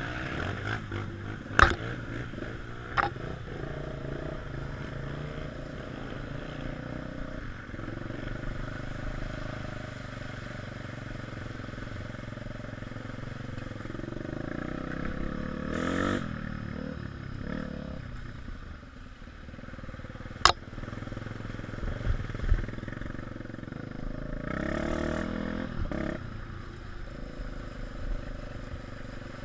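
Dirt-bike engines running, swelling up twice as the bikes are revved, with a few sharp knocks along the way.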